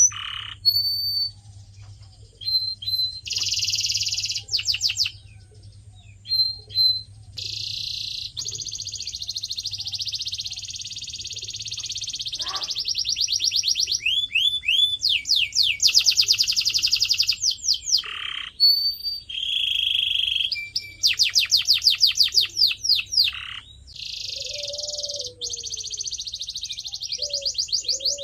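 Canary singing a long, varied song: fast rolling trills of rapidly repeated notes, buzzy sustained rolls and short clear whistled notes, broken by brief pauses.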